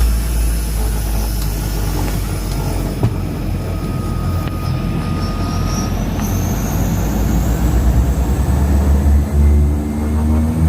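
Small turboprop aircraft on its takeoff run, a steady rumble with a high turbine whine that slowly rises in pitch as the engines build power.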